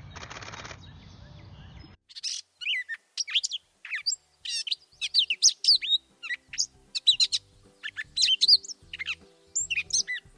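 Gray catbird singing: a long, rambling run of short, varied chirps, squeaks and slurred notes, starting about two seconds in.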